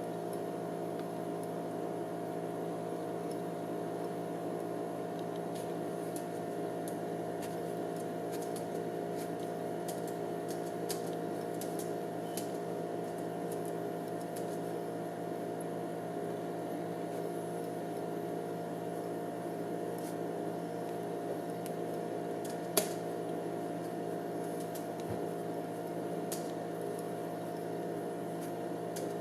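Hand-spun gyroscope running steadily, a constant whirring hum made of several steady tones, with faint ticks and one sharp click about 23 seconds in.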